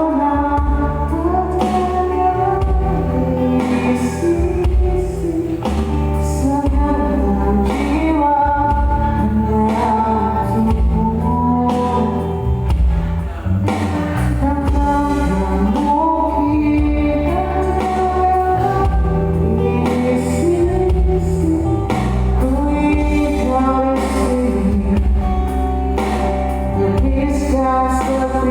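Live band music: a pop song played with a steady bass and a sung or played melody line that continues without a break.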